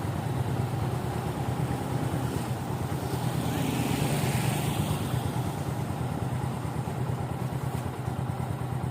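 Motorcycle engine running steadily, with a swell of road or wind noise about three to five seconds in.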